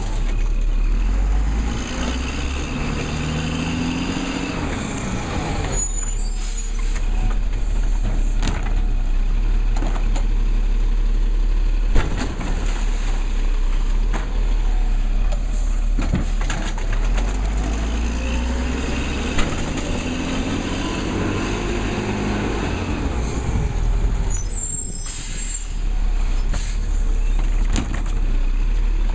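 Labrie Cool Hand automated side-loading garbage truck working its stops: the engine revs up and back down twice as the truck drives and runs its lifting arm. Short air-brake hisses come after each rise, with a few sharp knocks in between.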